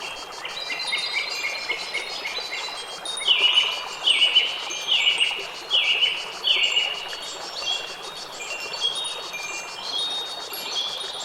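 Wind chimes tinkling, with many overlapping high ringing notes. Around the middle comes a run of five louder notes, each dropping slightly in pitch, a little under a second apart.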